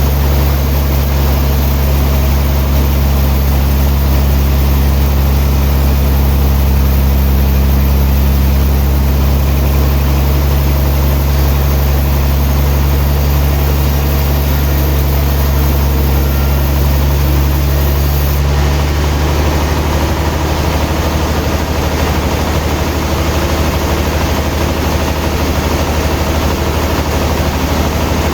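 Sawmill machinery's engine running with a steady, loud low hum; its tone shifts slightly about two-thirds of the way through.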